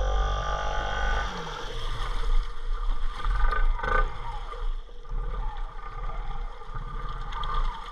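Off-road bike engine running while the bike pushes through flood-deep creek water: revved at first, the pitch drops about a second in, and the engine carries on at a lower, rougher rumble.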